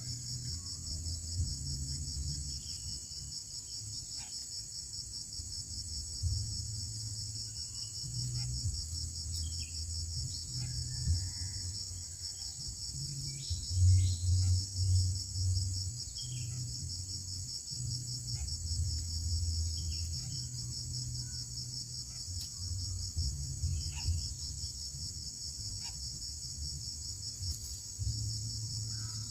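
Steady, high-pitched insect chorus, crickets or similar, trilling throughout, with a few faint short chirps. Under it runs a low rumble that comes and goes and is loudest about halfway through.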